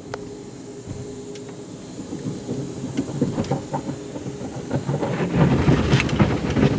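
Automatic car wash spraying water onto the car, heard from inside the cabin: a dense rain-like drumming that builds about two seconds in and gets much louder near the end.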